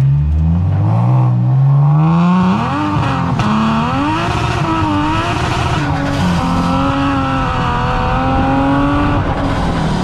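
Supercharged Lexus IS350 V6 in an open Exocet kit car pulling hard: the revs climb over the first couple of seconds, then rise and fall as it keeps accelerating. Wind rushes over the microphone from about two seconds in.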